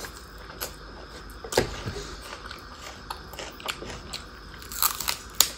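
Chewing and mouth sounds of a person eating rice by hand, with scattered short clicks and crunches. The loudest come about a second and a half in and again near the end.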